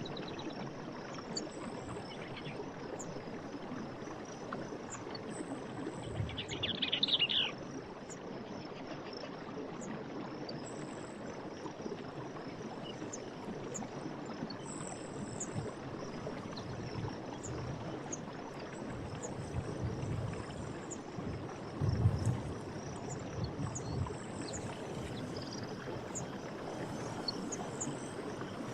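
Forest ambience: running water gives a steady rushing, under a steady high chirring of insects and scattered short, high bird chirps. A short, rapid bird trill comes about seven seconds in, and a brief low thump about twenty-two seconds in.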